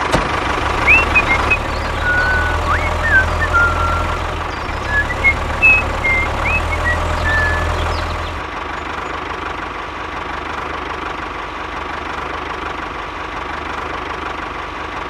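DIY mini tractor's engine running steadily, its low hum easing off about eight seconds in. Short high chirps sound over it during the first half.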